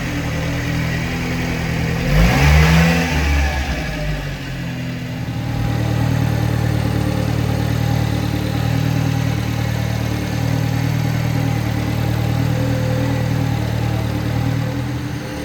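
Subaru Sambar kei truck's small 660 cc four-cylinder engine running, blipped up in revs about two seconds in, then dropping back and running steadily.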